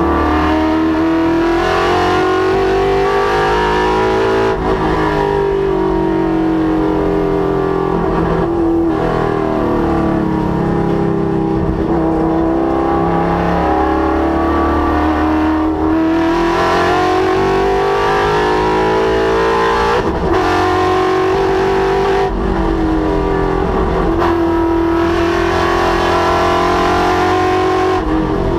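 Ford Mustang's Coyote 5.0 V8 at full throttle on a race track. The engine note repeatedly climbs and falls in pitch, with brief breaks at gear changes and lifts.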